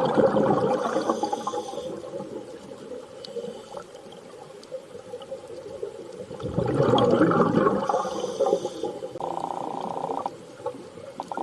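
Underwater water ambience: two swells of rushing, bubbling water, one at the start and a second, louder one about seven seconds in, with a brief steady hum about nine seconds in.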